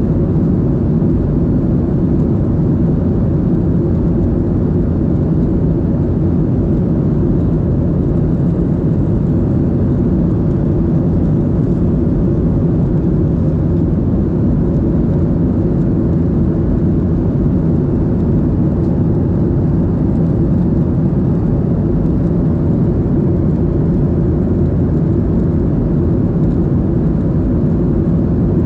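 Steady cabin roar inside a Boeing 737-800 in flight: the low rumble of its CFM56 jet engines and the rush of air past the fuselage, unchanging throughout.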